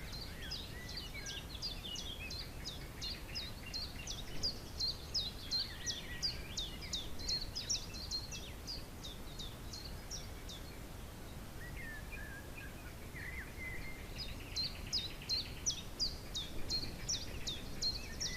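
Songbirds calling in rapid runs of short, high, down-sliding chirps, about four to five a second, breaking off near the middle for some lower twittering and starting up again a few seconds later. Wind rumbles steadily on the microphone underneath.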